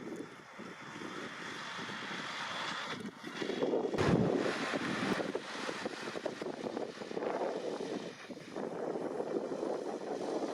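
Deutz-Fahr 6150.4 tractor running steadily under load during potato harvesting, with a louder rush about four seconds in.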